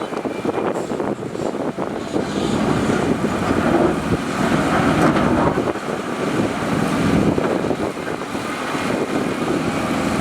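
Heavy earthmoving machinery's diesel engines running, the noise swelling and easing over a few seconds.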